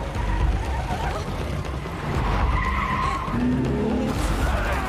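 Car tyres skidding amid loud vehicle noise, with a few held squealing tones over the rumble.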